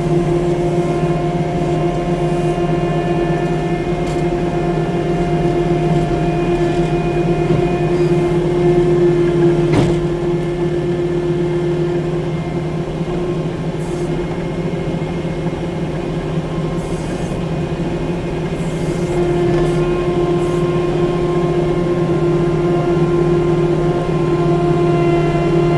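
6-ton compact track loader (skid steer) engine running at a steady speed, with one sharp click about ten seconds in.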